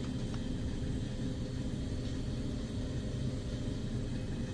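A steady low rumble with a faint hum underneath, even throughout.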